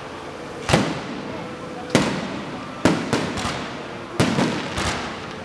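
Fireworks going off: about eight sharp bangs at uneven intervals, some in quick clusters, each trailing off in a crackle.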